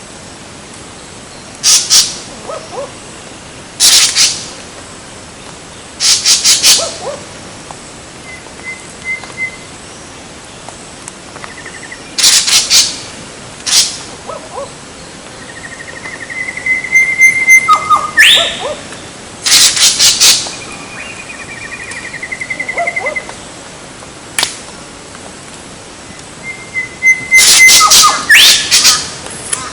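Birds calling: loud, harsh calls come in short bursts every few seconds, with thin high trills between some of them.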